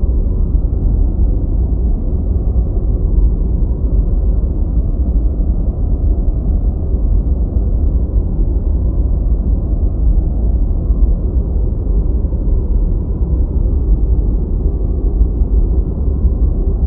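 Steady deep white noise: an even, unchanging hiss-like rumble sitting low in pitch, with the high end cut off.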